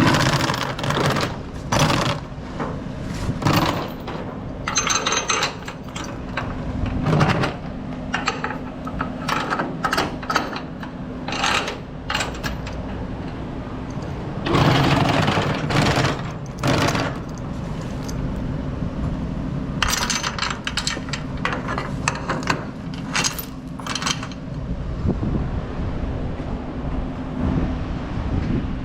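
Steel load-securement chains clinking and rattling in irregular bursts as they are handled and laid against cable reels on a flatbed trailer, with a steady low hum underneath. The clinking thins out after about 24 seconds.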